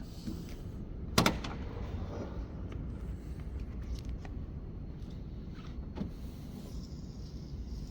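A car door worked by hand: one sharp knock about a second in, ringing briefly, and a lighter click around six seconds in, over a low rumble.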